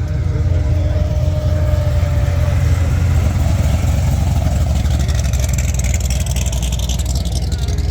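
Car running with a steady low rumble of engine and road noise; a hiss joins about five seconds in.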